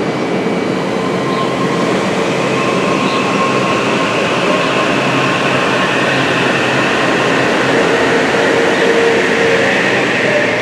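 Shoreline East commuter train running through the station: a steady, loud rumble of rail and wheel noise, with faint thin whining tones over it.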